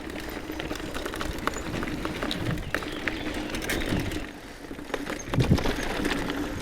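Mountain bike rolling over dirt singletrack, heard from the bike: tyre noise with many sharp clicks and rattles from the chain and frame over bumps, and a louder knock a little past halfway.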